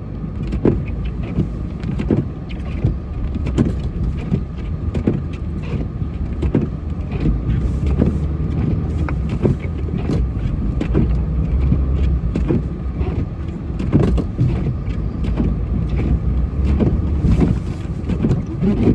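Truck engine running steadily while the plow pushes snow, with many short knocks and scrapes throughout.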